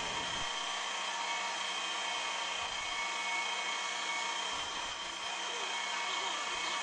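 CNC polygon turn-mill lathe running: a steady whirring machine noise with faint whining tones.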